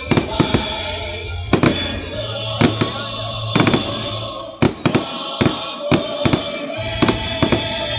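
Aerial fireworks bursting overhead in a quick, irregular run of sharp bangs, about two a second. Music plays steadily underneath.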